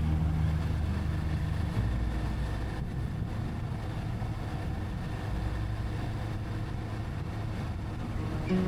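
Motorcycle engine running while riding, with a steady low rumble and wind rushing over the bike.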